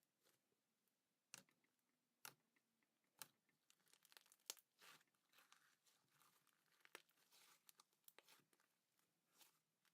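Faint handling noises: a string of short crinkles, taps and tearing sounds, some sharp and some drawn out, at irregular intervals.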